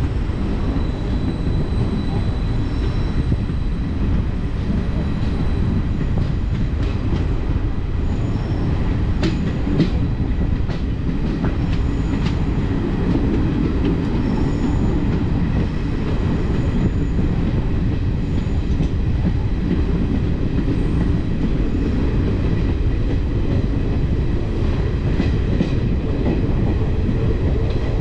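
Passenger train running on the track: a steady rumble of wheels on rails, with clicks now and then as the wheels pass over rail joints.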